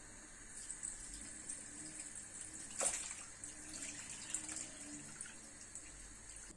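Water running from a tap in a steady hiss, with one sharp knock a little under three seconds in and a few lighter ticks.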